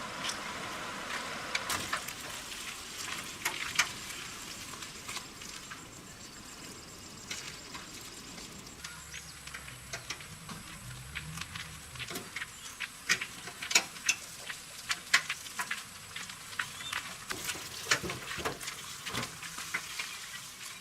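Irregular sharp clicks and light knocks of hand tools and small metal parts being handled during motorbike repair work. A faint steady high-pitched tone comes in about nine seconds in.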